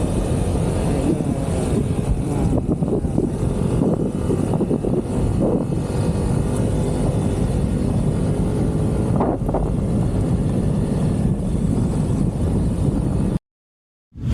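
Wind rushing over the camera's microphone and a vehicle running at speed during a ride, a steady low roar. It cuts off abruptly about a second before the end.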